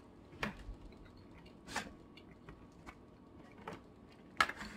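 Quiet eating sounds: a handful of short mouth smacks and clicks as food is chewed and handled, the loudest near the end.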